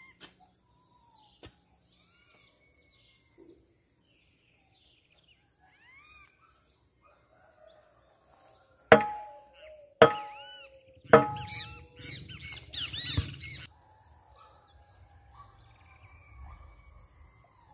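Birds chirping and calling, with three loud, sharp calls about a second apart past the middle, followed by a couple of seconds of rapid loud calling. A couple of sharp knocks sound in the first two seconds.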